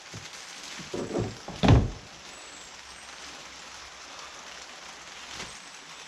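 Steady hiss of falling rain, with three dull thuds in the first two seconds, the last one loudest.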